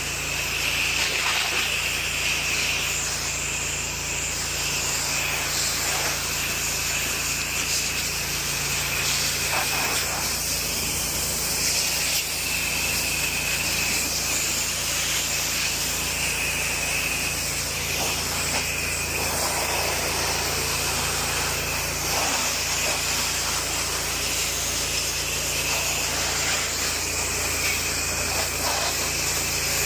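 Pressure washer running continuously: the hiss of the high-pressure water spray over the steady hum of the machine's engine.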